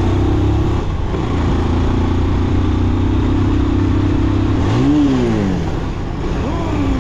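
Sport motorcycle engine running steadily while riding, heard from the bike itself. About five seconds in the engine pitch rises and then falls once as the throttle is opened and closed.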